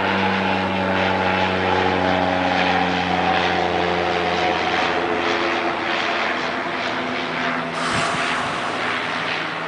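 Propeller aircraft engine running steadily, its pitch sinking slowly, with a brief low bump about eight seconds in.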